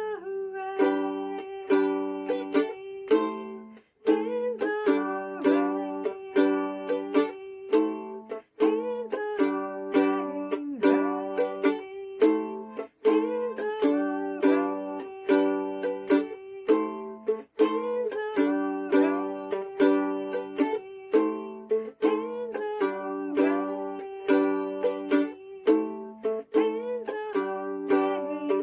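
Mandolin playing an instrumental passage without singing: plucked and strummed notes in a steady rhythm.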